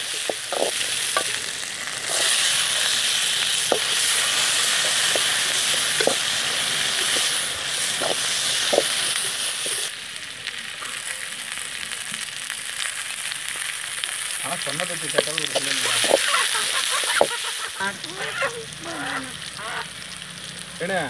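Sliced shallots, garlic and green chillies sizzling in oil in a metal kadai, stirred and scraped with a perforated steel ladle that clicks against the pan now and then. The sizzle is quieter in the second half.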